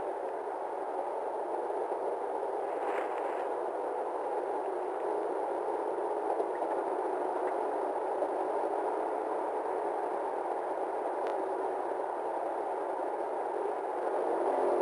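Steady radio static: a police radio channel hissing between transmissions, thin and band-limited like scanner audio.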